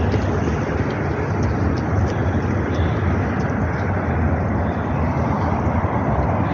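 Steady, loud rumbling rush of a train crossing a steel railway bridge, with a few faint clicks of the wheels on the track in the first three seconds.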